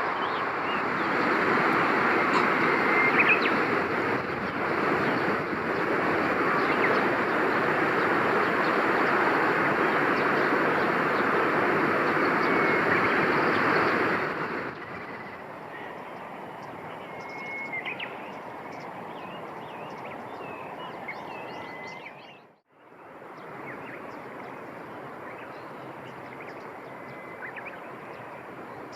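A steady rushing noise for the first half, then a quieter outdoor background with scattered short bird chirps and whistles. The sound dips out briefly about three-quarters of the way through.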